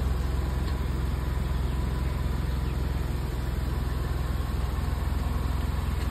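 Maruti Suzuki WagonR's engine idling steadily as the car creeps forward at low speed: a low, even hum.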